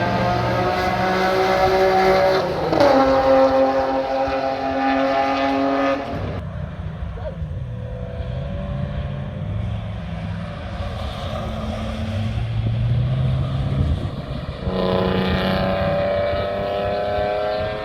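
BMW E46 M3's straight-piped S54 inline-six under hard acceleration on track, revs rising, an upshift about two and a half seconds in, then pulling up again. About six seconds in it lifts off to lower, quieter running, and near the end it goes back on the throttle and the revs climb again.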